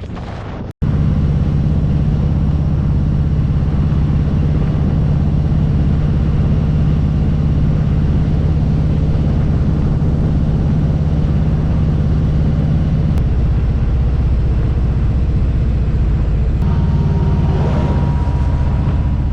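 Harley-Davidson cruiser's V-twin engine running steadily at road speed, with wind noise. The engine note shifts about two-thirds of the way through.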